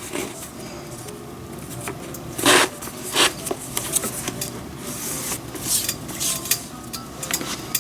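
Leather glove lace being drawn through the lace holes, a run of rubbing, zipping strokes with two louder, longer pulls about two and a half and three seconds in, then shorter ones.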